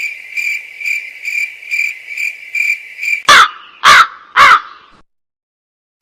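Stock comedy sound effect: steady cricket chirping, about two chirps a second, then a crow cawing three times about three seconds in, after which the sound stops.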